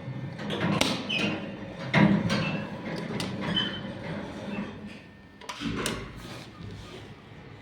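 Sliding doors of an old Soviet passenger lift working, with several metallic clunks and short squeaks over a low hum from the lift machinery.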